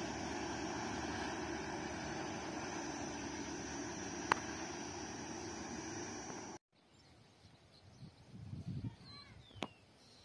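Steady rumble of a passing train running on, slowly fading, with one sharp click about four seconds in. It cuts off abruptly about two-thirds of the way through. Then comes quiet open-air ambience with a few short bird chirps and some low rumbling.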